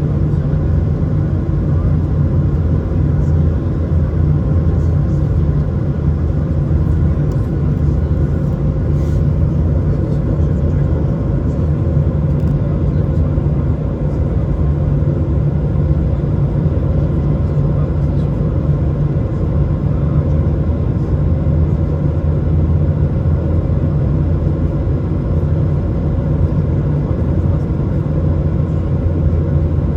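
Steady low rumble inside an Airbus A220's cabin while the jet taxis after landing, its Pratt & Whitney PW1500G turbofans at idle. A few faint steady tones sit over the rumble.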